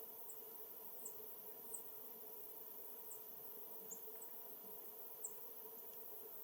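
Small songbird giving short, high, slightly falling chip notes, about eight of them at irregular intervals, over a faint steady background hum.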